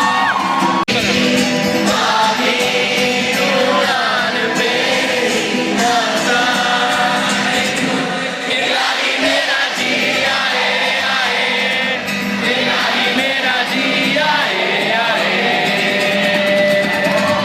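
Live concert music with singing, many voices singing together over the band. There is a brief cut in the sound about a second in.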